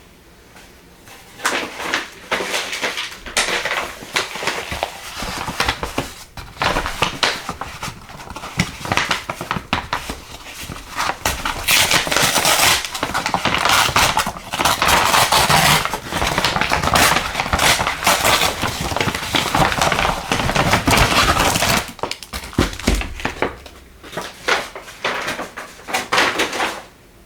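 Packaging being handled and opened: dense crinkling and clattering with many small clicks, starting about a second and a half in, busiest through the middle and stopping just before the end.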